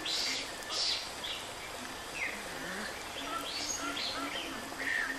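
Small birds chirping in short, scattered calls over a steady background hiss, the strongest calls near the start and about a second in.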